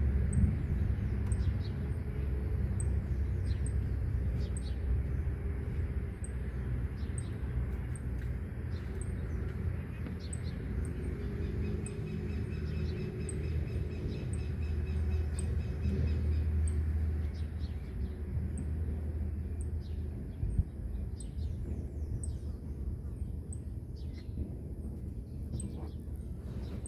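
Outdoor ambience: small birds chirping over a steady low rumble of wind and road traffic, the traffic swelling and fading around the middle. A faint high tick repeats about once a second throughout.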